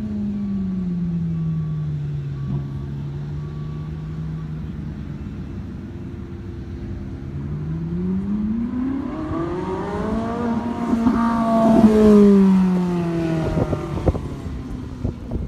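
Ferrari 458 Italia's V8 engine driven hard through a cone course: the revs sink away over the first few seconds, then climb from about seven seconds in as the car comes back toward the camera. It is loudest around twelve seconds in, then its pitch falls as it passes and pulls away.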